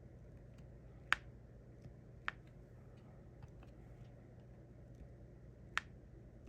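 Quiet, scattered ticks and taps of diamond painting: a drill pen picking up small resin drills and pressing them onto the sticky canvas. Three sharper clicks stand out, about one, two and six seconds in.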